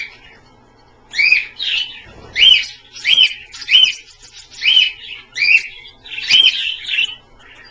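Pet parrot giving a dozen or so short, loud chirping calls, more than one a second, each a quick rise and fall in pitch.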